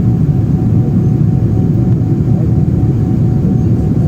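Steady engine and airflow noise of a Boeing 777-300 airliner on approach to landing, heard from inside the passenger cabin, with a faint steady whine above the low noise.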